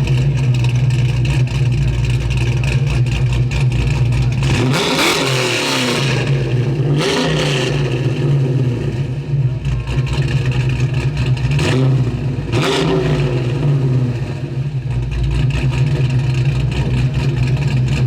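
Car engines running with a steady low rumble, swelling louder four times, about five, seven, twelve and thirteen seconds in, as an engine is revved or a car drives by.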